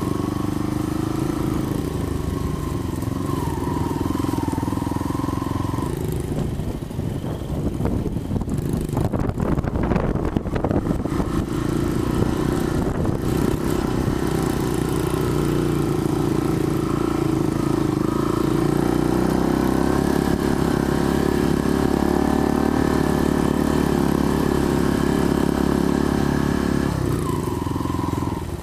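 Small off-road motorbike engine running while riding, its note rising and falling. A rough, rattly stretch comes about six seconds in and lasts several seconds. After it the engine holds steadier, higher revs until it drops back near the end.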